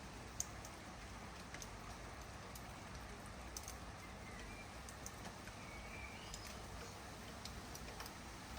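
Light rain falling steadily, with scattered sharp drip ticks. A small bird chirps faintly a couple of times midway.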